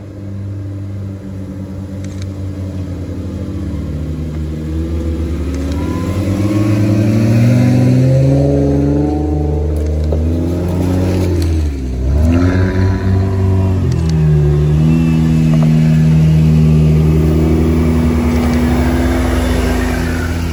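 Modified Jeep Wranglers driving up a dirt track past close by, engines revving with the pitch rising and falling with the throttle. The engine sound grows louder over the first eight seconds, drops briefly about twelve seconds in, then holds steady and loud.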